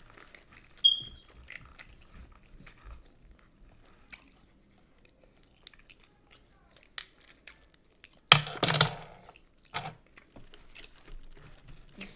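Close-miked chewing of a crispy fried chicken sandwich: small mouth clicks and chewing, with one loud crunchy bite about eight seconds in.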